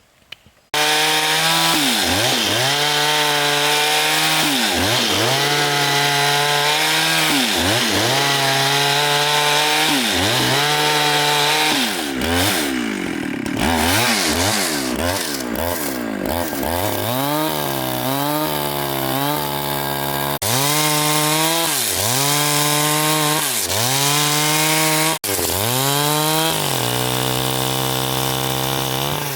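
Gasoline chainsaw engine cutting through a large log. It comes in suddenly about a second in, and its pitch sags and recovers over and over as the chain bites into the wood under load.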